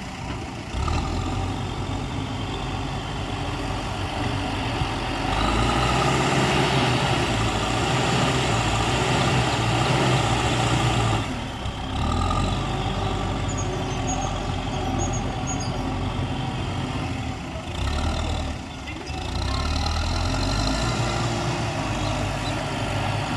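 Heavy diesel earthmoving machinery running continuously. The engine note grows louder for several seconds in the middle as the machine works, then eases off twice and picks up again.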